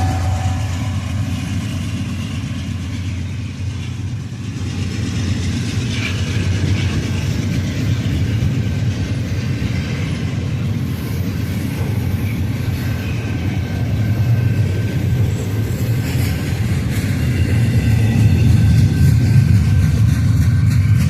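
Union Pacific intermodal freight train rolling past, a steady heavy rumble of cars on the rails with thin high wheel squeal here and there.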